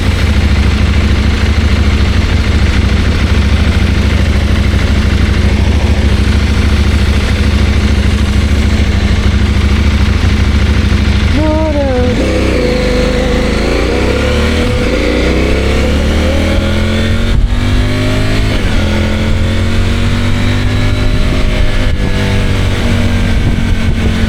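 CFMOTO 800MT parallel-twin motorcycle engine running steadily at a constant speed. About halfway through, the revs drop, then it accelerates again, the pitch rising in several steps as it shifts up through the gears.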